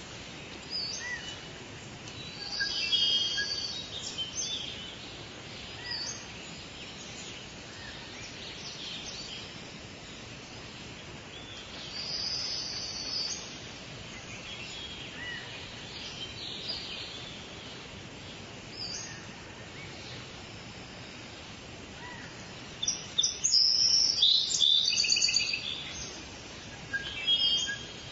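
Forest birds singing and chirping over a steady background hiss, with short high calls coming every few seconds and a louder run of rapid chirps near the end.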